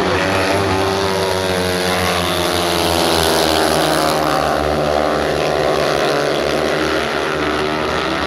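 Speedway motorcycles racing together, their 500 cc single-cylinder methanol engines running hard, with several engine notes bending up and down as the bikes slide through the bend and pass.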